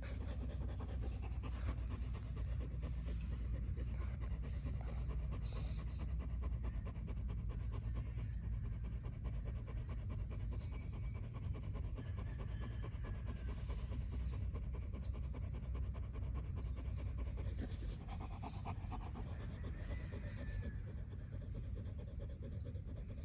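Dog panting steadily throughout.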